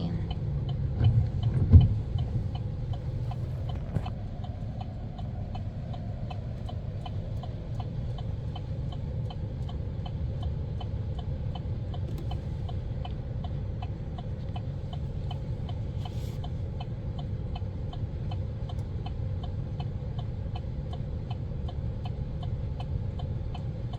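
Pickup truck cab interior: the engine and tyres give a steady low rumble as it drives, with a faint regular ticking throughout. A single thump comes about two seconds in.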